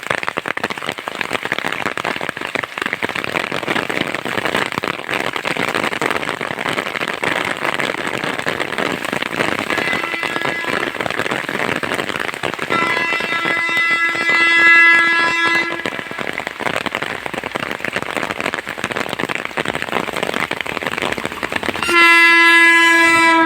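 An Indian Railways electric locomotive and its train run with a steady rush of wheel-on-rail noise. The locomotive's horn sounds for about three seconds roughly halfway through, and again loudly near the end.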